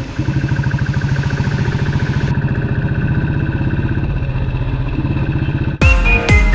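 Royal Enfield Bullet Electra 350's single-cylinder engine running with a steady, even pulse. Electronic music with a heavy bass beat cuts in abruptly near the end.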